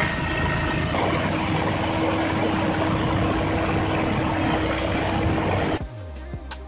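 Snowblower truck running: a steady, loud rushing noise of the engine and blower with a constant hum, cutting off sharply near the end.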